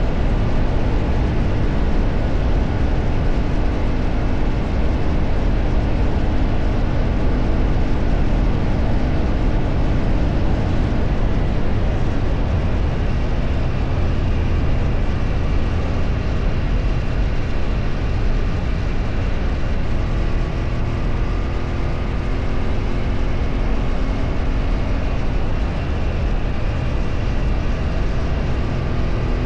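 A vehicle travelling on the road, with steady, loud wind and road noise over an engine hum. The engine note shifts in pitch about a third of the way in and again about two-thirds of the way in.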